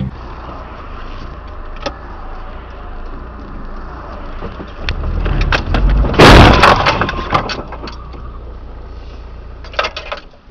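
Steady road and engine noise from a car recording, then a loud crash about six seconds in, followed by sharp cracks and clatter. A short burst of cracks comes again near the end.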